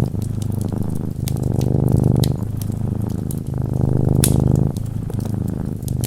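Close-up cat purring, a steady low rumble that shifts slightly in pitch about every second as the cat breathes in and out. Sharp crackles from a wood fire pop over it.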